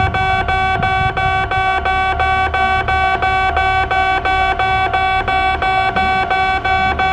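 Electronic railway level-crossing warning bell ringing in a steady, rapid, even rhythm, signalling that a train is approaching. A low rumble of a train runs underneath.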